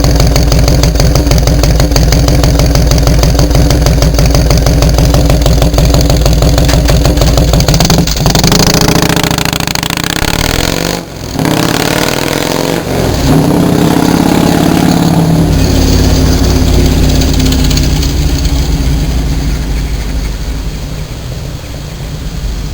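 Yamaha Road Star XV1600's air-cooled V-twin running through Freedom true-dual Sharktail exhaust pipes: a steady, loud, lumpy idle, then the engine revs up about eight seconds in. There is a brief break near eleven seconds, the revs climb again, and the sound grows gradually quieter toward the end.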